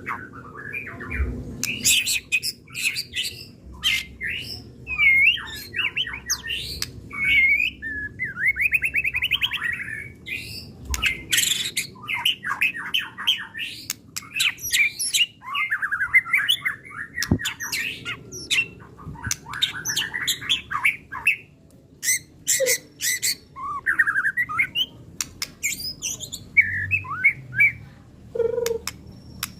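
White-rumped shama (murai batu) singing hard and without a break: a fast, ever-changing run of whistled slurs, rapid rattling trills and sharp clicks, typical of an agitated male pouring out its full repertoire of mimicked phrases.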